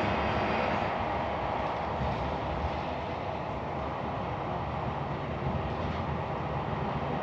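Passenger train on the move, heard from inside the carriage: a steady running noise of wheels on rail and the train's motion, without a clear rhythm.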